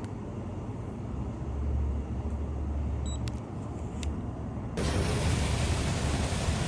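Low rumble of a car going by. About two-thirds of the way in, a louder steady hiss sets in abruptly.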